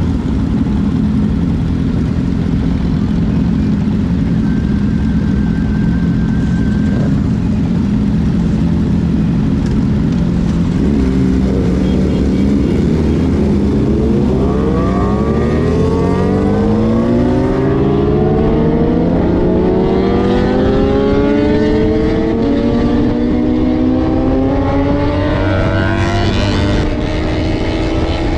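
Motorcycle engine running at a steady pitch, then accelerating from about halfway through, its pitch rising steadily.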